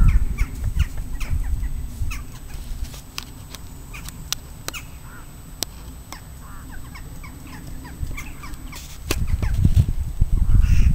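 Birds chirping in many short, falling calls, with a few sharp clicks, over a low rumble that swells near the start and again toward the end.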